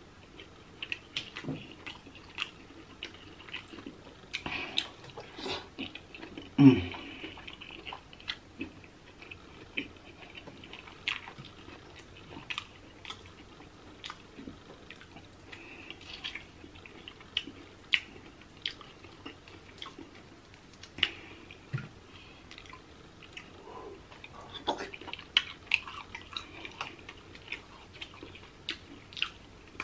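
Close-miked wet chewing and lip-smacking of someone eating sauce-dipped shrimp and king crab meat: scattered sharp clicks and smacks, with one louder mouth sound about seven seconds in.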